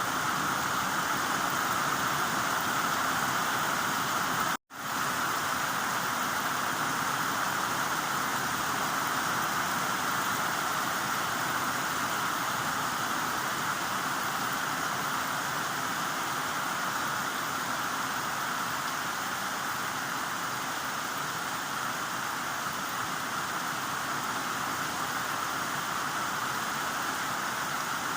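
Heavy rain falling steadily as a dense, even hiss, broken once by a split-second dropout to silence about five seconds in.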